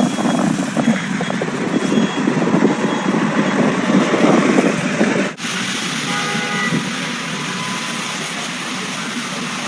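Street traffic noise from vehicles, in two spliced shots with an abrupt change about five seconds in; a few faint short tones sound briefly near the middle.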